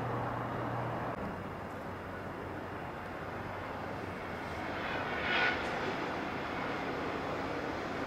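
Steady distant drone of a train approaching in the dark. A low steady hum cuts off about a second in, and a short higher-pitched sound, the loudest moment, comes about five seconds in.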